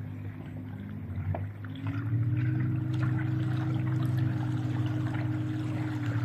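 Small electric boat motor humming steadily, then speeding up with a rise in pitch and loudness about two seconds in, with water splashing and trickling around the hull.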